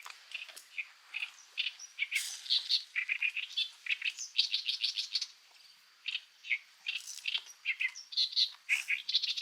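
Birds chirping and singing: quick runs of short, high chirps one after another, with a brief lull about six seconds in.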